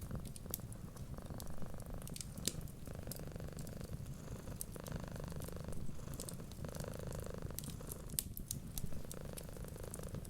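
Cat purring steadily, its sound rising and falling with each breath every second or two, with sharp crackles and pops of a wood fire scattered over it.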